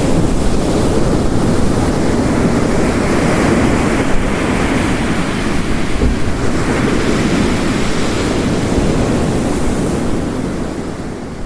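Ocean waves surging and crashing on a coast under heavy rain, a dense steady wash that swells and ebbs. It fades out near the end.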